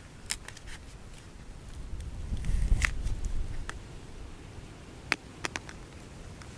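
A few sharp clicks and taps, with a low rumble that swells about two seconds in and fades again.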